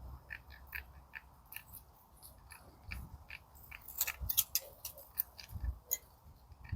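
Hand shears snipping a shim washer out of sheet material: a run of short, irregular cutting clicks, busiest about two thirds of the way through, with a few dull knocks.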